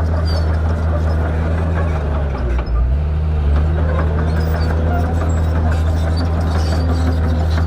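Shantui bulldozer's diesel engine running steadily with a deep, even drone, its note dipping briefly about two and a half seconds in, with light clanks and rattles over it.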